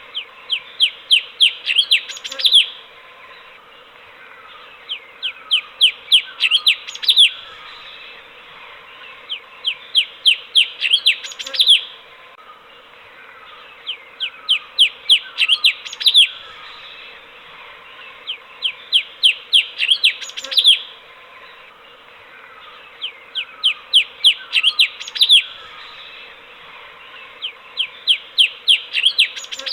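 Cucak cungkok, a bulbul, singing the same short phrase over and over, about every four and a half seconds. Each phrase is a quick run of about eight falling whistled notes that grow louder to a final strong note.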